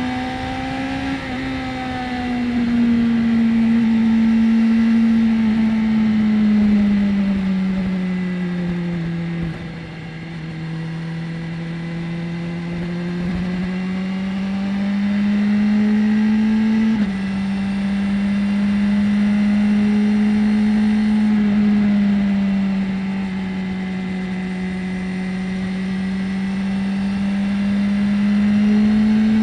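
BMW S1000R's inline-four engine running while the bike is ridden, with a steady engine note. The pitch sinks slowly to its lowest about ten seconds in, climbs back, then drops suddenly by a small step about seventeen seconds in before it rises again near the end.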